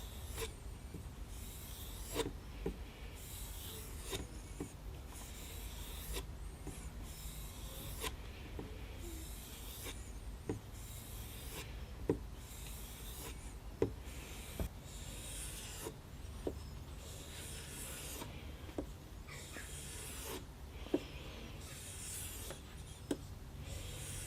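Abrasive or file strokes worked by hand over the knife, a steady run of rubbing strokes of about a second each, with sharp clicks every second or two as the tool or blade is set down or repositioned.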